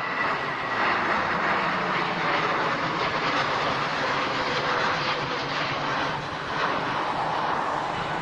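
Airliner engines, loud and steady, as an aircraft passes the airport, with a faint high whine that fades out about a second in.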